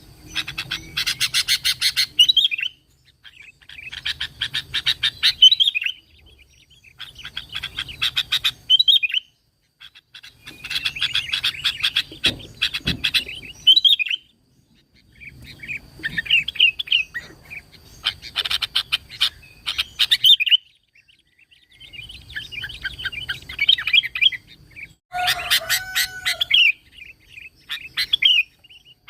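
Sooty-headed bulbul (kutilang) singing in repeated bouts about every three seconds, each a fast chattering run that ends in a slurred whistle.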